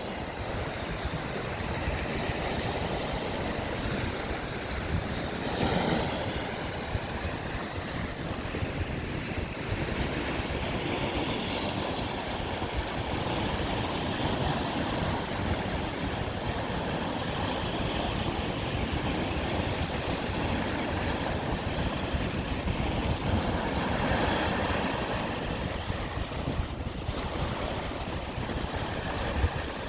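Waves breaking and washing on a lakeshore in a strong wind, with gusts buffeting the microphone as a heavy low rumble. The surf swells louder twice, once about six seconds in and again about three-quarters of the way through.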